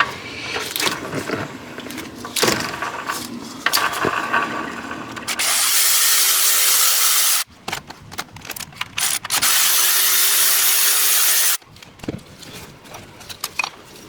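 A cordless power tool runs twice, each run about two seconds of steady high whirring, to take out bolts on the engine's front. Before and after the runs there are small clicks and clanks of hand tools and metal parts.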